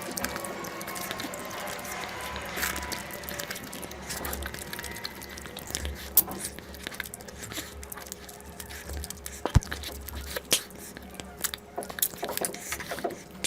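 Close-miked eating of curry and rice: wet chewing with scattered sharp mouth clicks, the loudest a little under ten seconds in.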